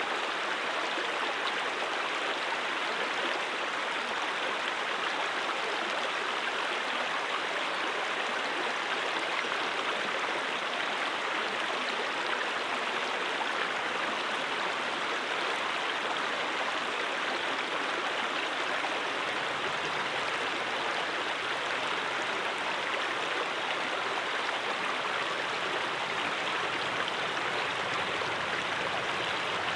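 A mountain stream flowing over rocks: a steady, unbroken rush of running water.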